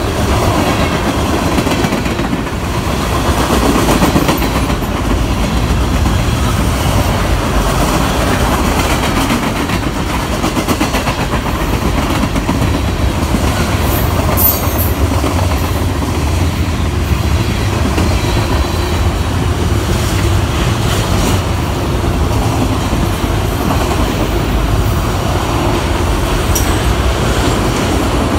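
Long freight train of covered hopper cars and then autorack cars rolling past, a steady loud noise of steel wheels running on the rails, with a brief high-pitched squeal about halfway through.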